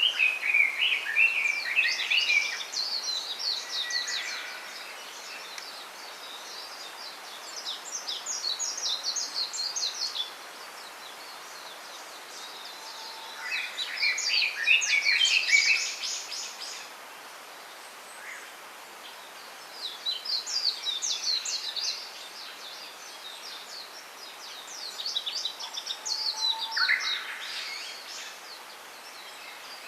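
Small songbirds singing in repeated bouts of rapid, high twittering, each bout lasting two or three seconds and coming back every few seconds, some with a lower warbled phrase mixed in. A steady soft hiss of ambient forest noise lies underneath.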